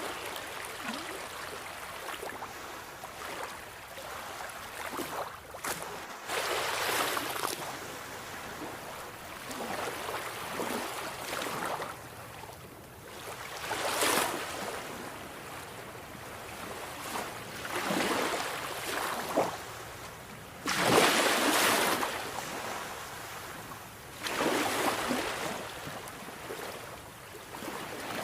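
Sea waves breaking and washing in over a steady hiss, in irregular surges every few seconds. The largest surge comes about three quarters of the way through.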